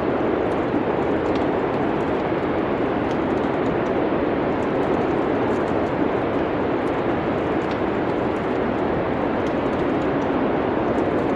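Steady rushing wind with faint, scattered crackles of a wood fire.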